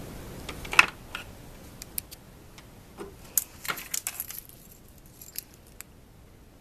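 Irregular light metallic jingling and clicking, like small metal pieces shaken together, in scattered clusters that stop about six seconds in.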